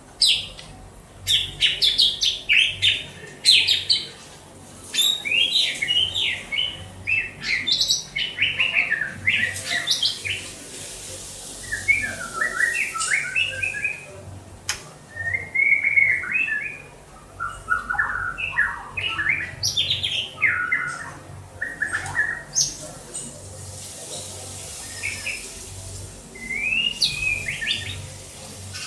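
White-rumped shama singing: long runs of rapid, varied notes that jump about in pitch, broken by a few short pauses.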